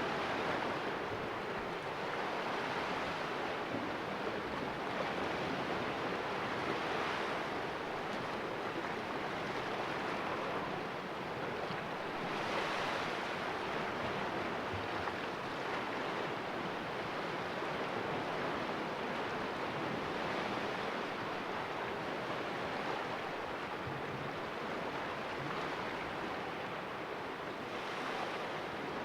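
Sea waves splashing in a rocky cove: a steady rush of water that swells now and then as waves wash in.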